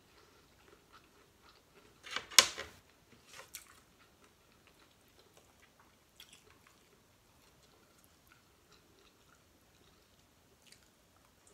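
A person chewing prawns with soft mouth sounds and small clicks, broken by a short loud crackle about two and a half seconds in and a smaller one about a second later.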